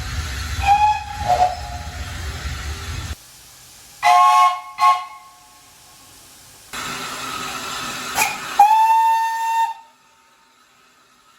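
Steam locomotive whistles from several clips cut one after another: short blasts over a low rumble, a brief chime whistle sounding a chord of several tones twice about four seconds in, and a longer steady whistle blast near the end.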